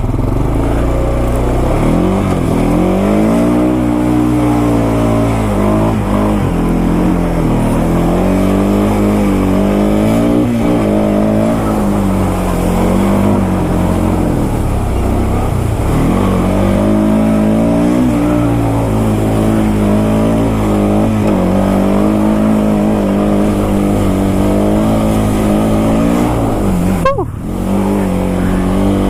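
Honda Foreman ATV engine running under throttle while riding, its pitch rising and falling over and over as the revs change. Near the end it briefly drops off before picking up again.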